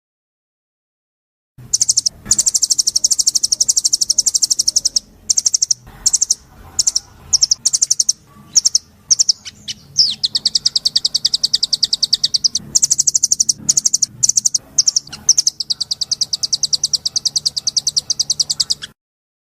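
A songbird singing long, very rapid high trills, broken by short pauses, with a stretch of separate single chirps in the middle. The song begins about a second and a half in.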